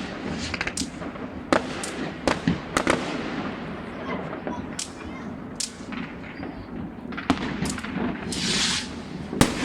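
New Year's fireworks and firecrackers going off: a steady run of sharp bangs and pops at irregular intervals, some louder than others, over a low rumble, with a hissing crackle lasting about a second near the end.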